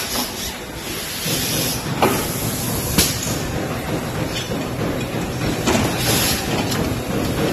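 Assembly-line machinery running steadily, with hissing and a couple of sharp clicks.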